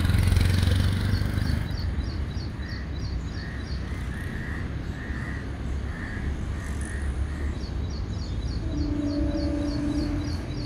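Low rumble of a suburban electric train moving through a rail yard, easing after the first couple of seconds. Crows caw repeatedly through the middle while small birds chirp in quick runs. Near the end a horn sounds once for about a second.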